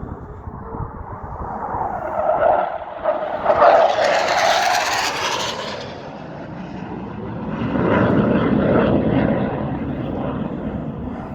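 Low-flying RAF military aircraft passing overhead: its engine noise builds to a peak about four to five seconds in, eases off, then swells again, lower in pitch, around eight to nine seconds in.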